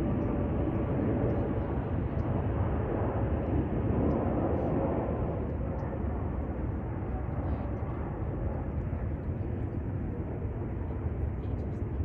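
Jet airliner engines rumbling as a plane passes, a little louder a few seconds in and then slowly fading.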